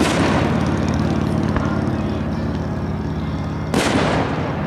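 Two aerial firework shells bursting, one right at the start and another near the end, each a sharp bang that trails off in an echoing rumble. A steady low mechanical hum runs underneath.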